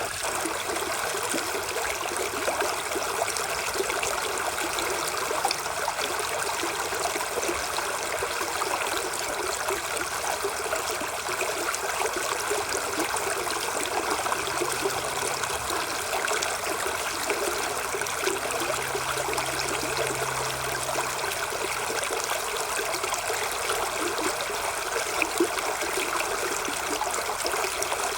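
Steady rushing of running water, like a stream, even and unbroken throughout.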